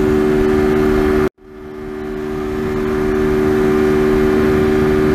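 TVS Apache RTR 200's single-cylinder engine holding steady high revs at highway speed of about 130 km/h, with a steady rush of wind noise. The sound cuts out abruptly about a second in and fades back up over the next two seconds.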